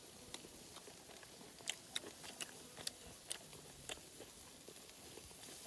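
A person chewing a mouthful of grilled pork with the mouth closed: faint, irregular mouth clicks and smacks, a couple each second.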